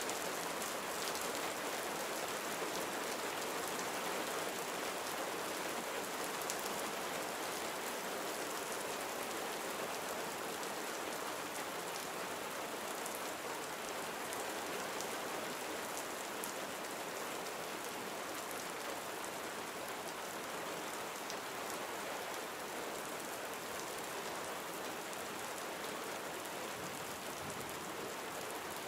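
Steady gentle rain falling, an even patter of many small drops.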